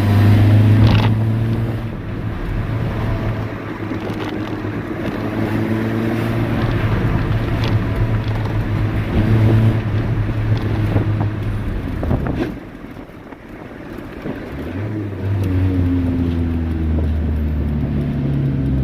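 Honda D16 four-cylinder engine in a 1991 Civic running steadily under way, heard from inside the car. About twelve seconds in the engine note drops away for a couple of seconds, then comes back at a lower pitch and climbs a little, as with an upshift.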